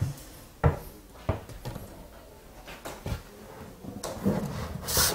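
A few scattered knocks and clunks in a small room, with a short rustle near the end.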